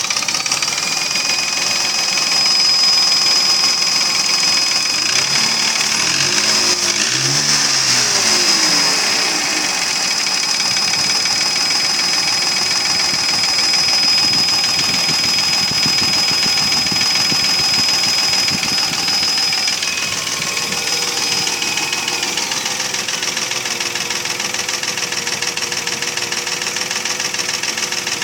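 Mercedes ML320's M112 V6 petrol engine running with a fast, steady knock, which the owner puts down to scuffed pistons and cylinder walls (piston knock) after 300,000 km, not to the bearings, timing chain, tensioner or hydraulic lifters. A thin high whine runs along with it and stops about three quarters of the way through.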